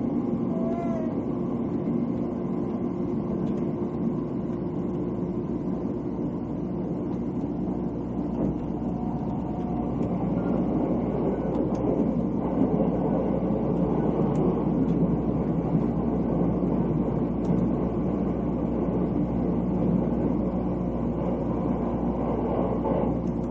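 Limited express electric train running, heard from inside the passenger car: a steady rumble of wheels on rail with a low hum.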